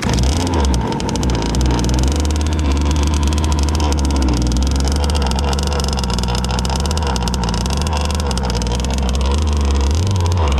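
Zenoah 26cc two-stroke gas engine of an RC race boat running steadily, with a brief rise in pitch near the end.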